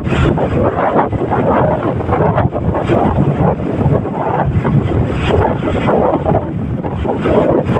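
Loud, gusting wind buffeting the microphone aboard a boat under way at sea, over a continuous rush of water and the boat's running noise.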